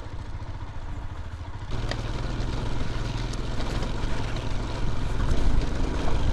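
Royal Enfield Himalayan motorcycle engine running under way, with wind and road noise. It gets louder about two seconds in and keeps building.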